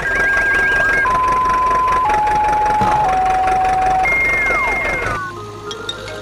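Cartoon sound effects: an electronic tone stepping down in four held notes about a second apart, then a falling slide-whistle-like glide, over a steady noisy rumble. About a second before the end the rumble cuts off and light music begins.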